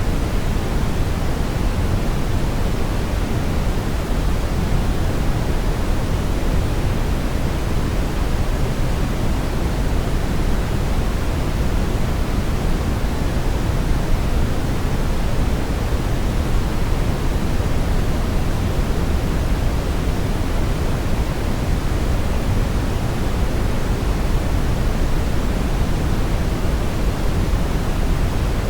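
Steady, unbroken brown noise: a deep, even rushing hiss, heaviest in the bass and fading toward the treble, with no changes or events.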